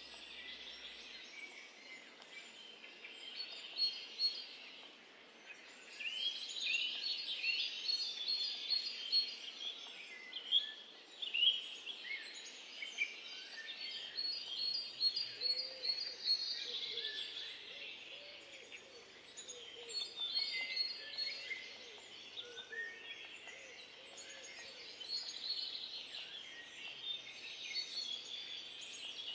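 Several birds chirping and singing continuously in short trills and repeated chirp series. A lower repeated call joins in around the middle.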